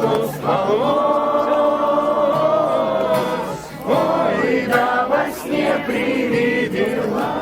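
Singing: a voice holding long, drawn-out notes, with a short break about four seconds in. No instrument stands out.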